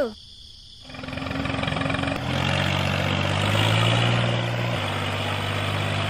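Tractor engine running. It comes in about a second in as a steady low hum, fills out about a second later, and its pitch creeps up and then drops back a little near the five-second mark.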